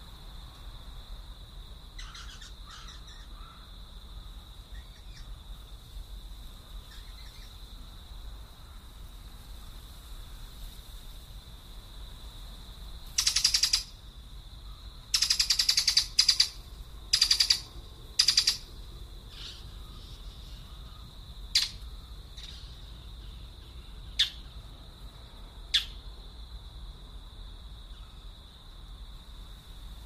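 Birds calling: a few faint calls, then a run of four loud, harsh calls a little before the middle, followed by three short sharp chips spaced a couple of seconds apart. A steady high-pitched ringing tone sits beneath.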